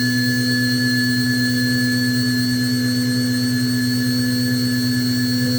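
Cue Demon CNC XL running a taper-profiling pass on a wooden pool cue shaft, with the cutting spindle and the shaft-spinning motor both on: a steady hum with a high whine.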